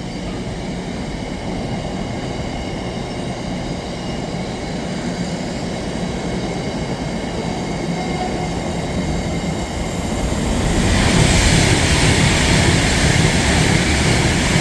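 Aggregate wagons of a Class 66-hauled freight train rolling past with a steady wheel-on-rail rumble. About eleven seconds in, a louder rushing joins as a Class 390 Pendolino electric train passes at speed.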